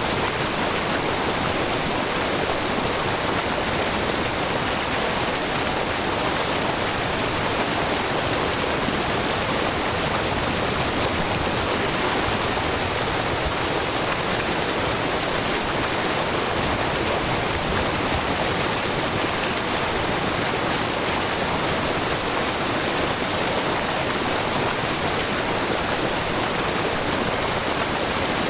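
Shiraito Falls, a low, wide waterfall of groundwater spilling in many thin streams over a rock face, making a steady rushing and splashing with brook water babbling. The hiss is even and unbroken, with nothing rising or falling.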